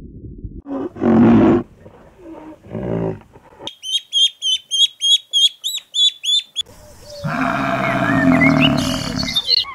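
A string of different animal calls. First comes a short, loud, deep-voiced call about a second in, then rapid high chirping at about three a second for some three seconds, then a long, loud, lower call.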